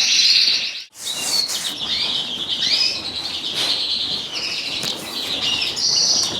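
Many caged canaries and finches chirping and singing together. A dense run of trilling song breaks off about a second in, then comes back as many separate chirps and swooping calls.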